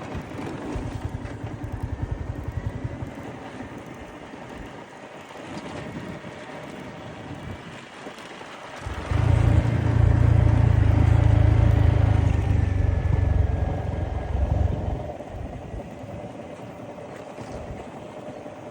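Motorcycle engine running on the road, its low rumble swelling much louder for about six seconds in the middle before dropping back.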